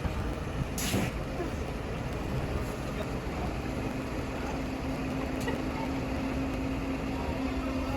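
Engine running steadily, with a sharp click about a second in and a steady hum that comes in about three and a half seconds in.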